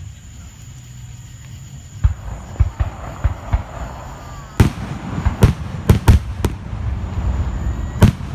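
Fireworks going off: a string of sharp bangs and booms with crackling between them, starting about two seconds in and thickest around the middle, with one more loud bang near the end.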